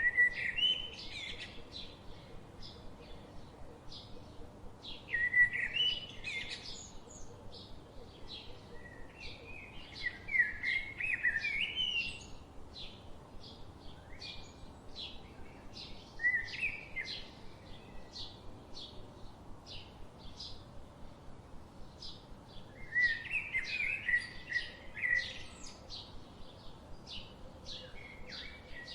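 Birds singing in a forest: short warbling song phrases every few seconds over a steady run of short high notes, about two a second.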